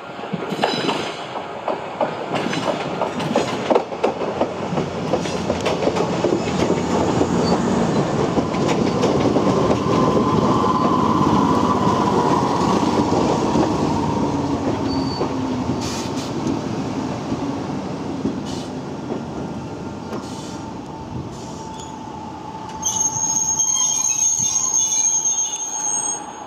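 Yoro Railway 620 series electric train rolling slowly past, its wheels clicking over rail joints and points and squealing on the curve. Near the end a louder hiss with a high steady tone comes in for about three seconds.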